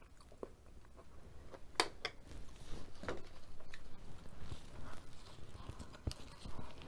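Chewing and wet mouth sounds from eating noodles and beef, with scattered sharp clicks. Fresh lettuce leaves crinkle as they are handled and folded, a few seconds in.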